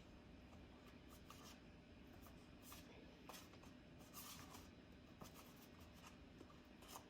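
Near silence with faint, soft rustling and scraping, a few short brushes spread out: a chicken tender being pressed and turned in dry breading mix.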